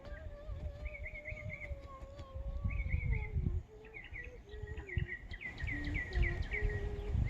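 Songbirds chirping in short repeated phrases, the calls quickening with quick downward sweeps in the second half, over a low, uneven rumble. A lower held tone slides slowly down over the first few seconds, then gives way to short steady notes.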